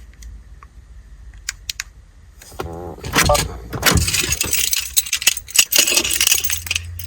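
A bunch of car keys and key-fob remotes jangling as they are handled, with a few light clicks in the first couple of seconds and steady jangling from about two and a half seconds in.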